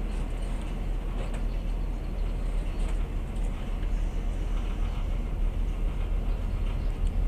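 Steady low rumble of a passenger train moving slowly, heard from inside the carriage, with a few faint clicks.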